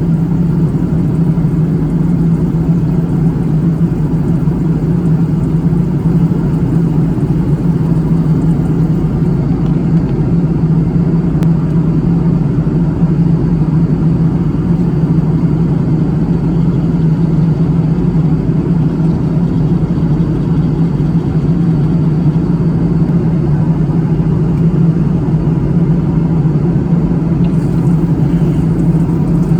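Steady drone of an airliner in flight heard from inside the passenger cabin: engine and airflow noise with a strong low hum.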